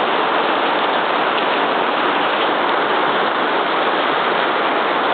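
Heavy rain falling steadily, a loud, even hiss without let-up.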